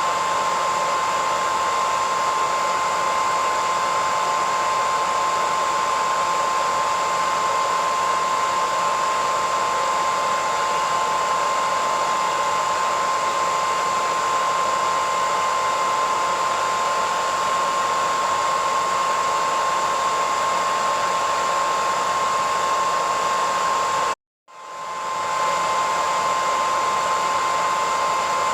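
Hair dryer running steadily: an even rushing blow with a constant whine. About 24 seconds in it cuts out completely for half a second, then swells back in.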